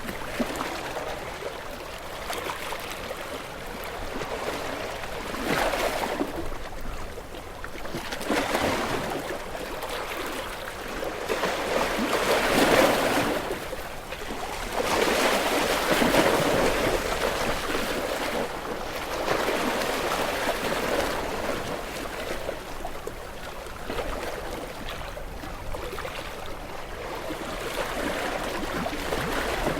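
Small waves washing onto a beach and drawing back, the surf swelling and easing every few seconds, with two stronger washes in the middle.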